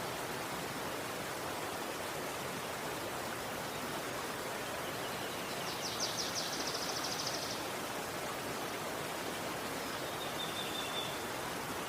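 Steady rush of flowing river water. About halfway through, a bird gives a rapid high trill of repeated notes lasting about two seconds, and near the end a short, thin high whistle.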